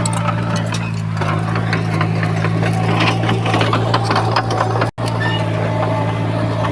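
Diesel engine of heavy earthmoving machinery running steadily, with many small metallic clicks and clanks over it. The sound cuts out for an instant about two-thirds of the way through.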